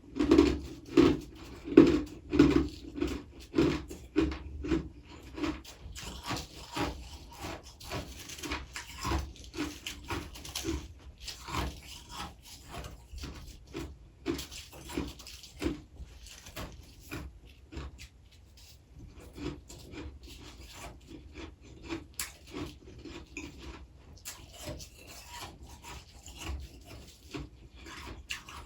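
Freezer frost being crunched over and over in short strokes, about two a second at first, then softer and more irregular.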